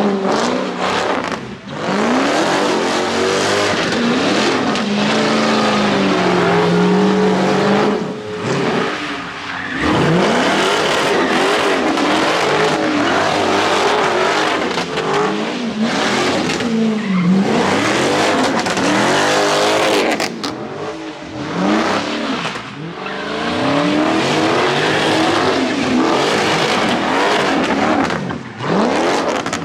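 Car engines revving hard, rising and falling over and over, with tyre noise from spinning wheels.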